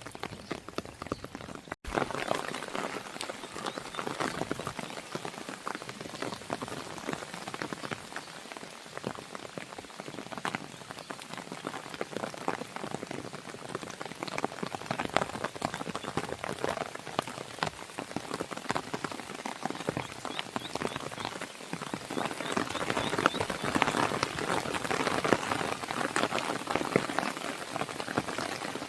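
Steady rain falling on a window pane, mixed with the crackle of a wood fire, as a dense run of fine ticks. It cuts out for a split second about two seconds in and grows a little louder in the last several seconds.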